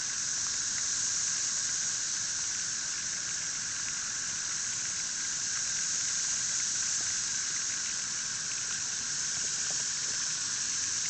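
Chorus of periodical cicadas: a steady high-pitched drone of many insects singing at once, holding without a break.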